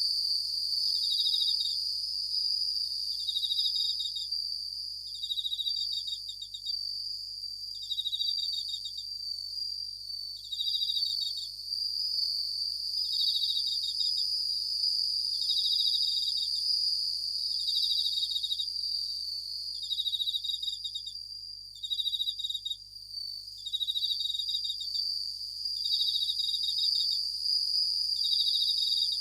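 Japanese bell crickets (suzumushi) singing: a steady high ringing trill, with short pulsed trills repeating about every two seconds.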